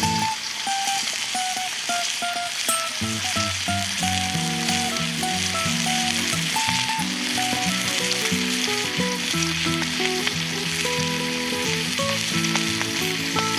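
Bacon and eggs sizzling steadily as they fry in a pan, under background music with a melody and a bass line that comes in about three seconds in.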